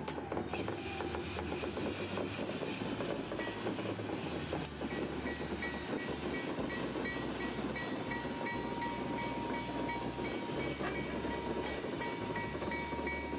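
Locomotive bell of GE U34CH 3372 ringing steadily, about two strokes a second, starting a few seconds in, over the rumble of the train moving along the track.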